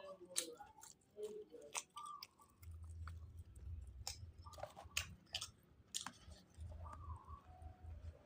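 Close-up chewing of grouper, with many sharp wet mouth clicks and lip smacks. A low rumble comes twice underneath.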